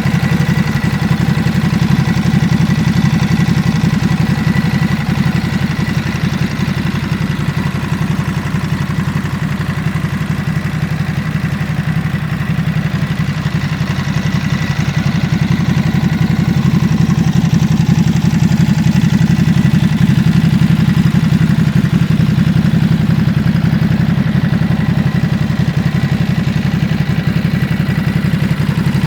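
Ducati SuperSport S 950's 937 cc L-twin engine idling steadily.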